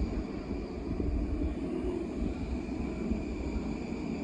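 Long Island Rail Road electric multiple-unit train rolling slowly past along the platform: a steady low rumble of wheels and motors with a thin, constant high tone over it.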